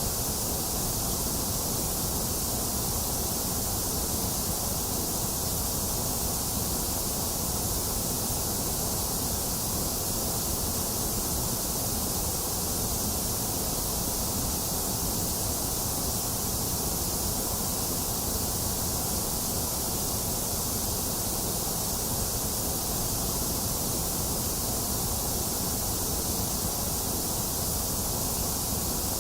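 Box fan running steadily mixed with a continuous hiss of rain, with no thunder.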